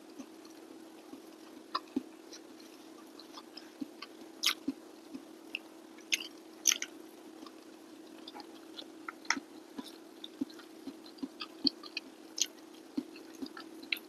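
A person chewing and smacking their lips while eating rice and steamed fish by hand: many short, scattered wet clicks, over a steady low hum.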